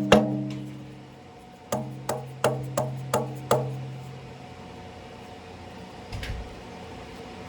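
Hammer tapping on the engine's timing cover to break its silicone seal and work it off. There is one strike at the start, then six quick taps about three a second, each with a short metallic ring, and a faint knock near the end.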